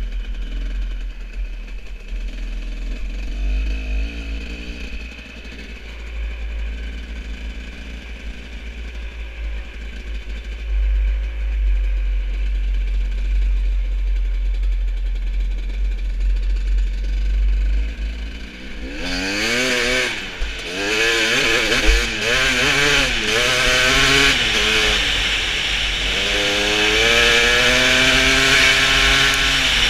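Motorcycle engine, faint under a steady deep rumble at first, then about two-thirds of the way in loud and revving hard, its pitch climbing and falling again and again as it accelerates through the gears.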